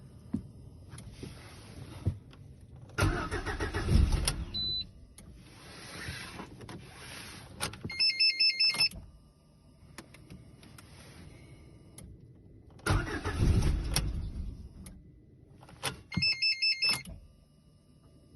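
Lada Granta's 1.6 16-valve (VAZ-21127) engine cranked on the starter twice, each time for about a second and a half without catching: a cold no-start. Each attempt is followed by a quick run of about five short electronic beeps.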